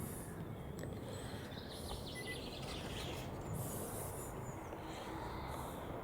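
Steady outdoor background noise with a few faint, short bird chirps about two seconds in.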